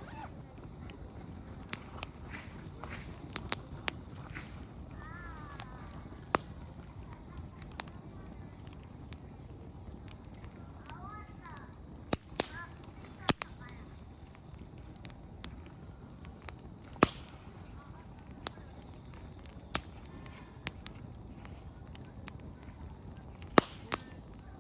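Wood campfire crackling: sharp, irregular pops of burning firewood every second or so over a low steady hiss. Faint distant children's voices come in briefly about five seconds in and again about eleven seconds in.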